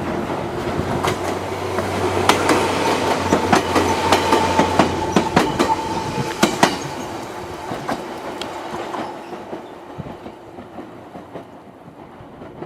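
Train running on the track, its wheels clacking over rail joints in a quick series of knocks, over a steady low hum and a thin whine. The sound fades away over the last few seconds.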